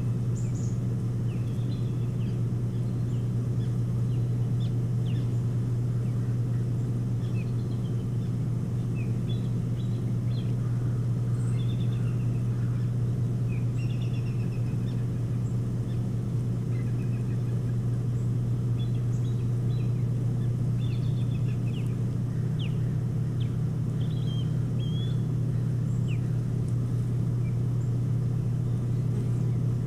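Scattered short, high bird calls and chirps over a steady low hum that is the loudest sound throughout.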